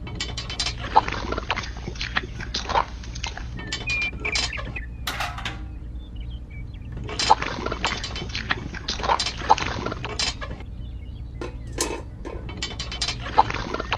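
Water splashing and pouring in irregular spells, pausing twice, over a steady low hum.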